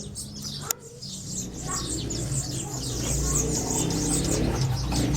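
Many small birds chirping over one another in quick, short high chirps, over a low background rumble that grows louder in the second half; a single sharp click just under a second in.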